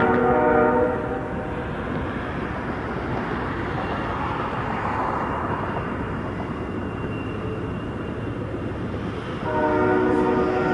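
Train of Triple Crown RoadRailer highway trailers rolling past with a steady rumble. The locomotive's multi-note air horn sounds twice: a blast that ends about a second in, and another that starts near the end.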